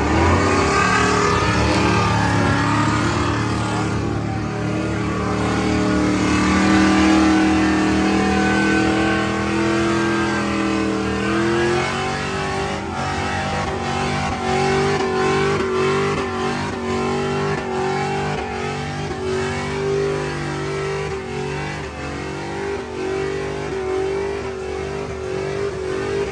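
Truck engine revving hard and held at high revs, its pitch climbing slowly and then dropping back about 11 seconds in. It then holds steady with a choppy pulsing.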